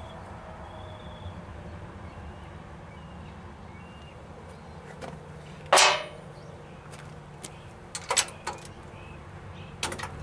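Hand tools working on the engine while a spark plug is taken out: one loud sharp clank about six seconds in, then a few quicker clicks and knocks near the end, over a steady low hum.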